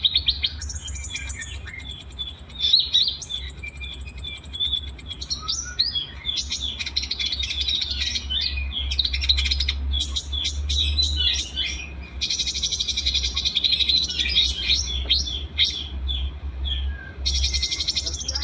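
Small songbirds singing in a dense, overlapping mix of sharp chirps and rapid buzzy trills. This is a 'masteran' song recording of the kind played to teach captive songbirds, over a steady low hum.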